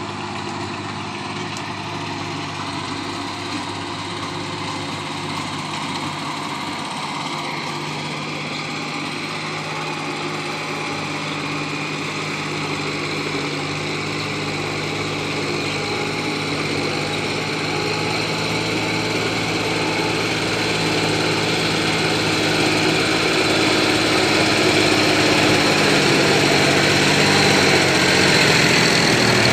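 John Deere tractor's diesel engine running steadily under load, getting gradually louder throughout.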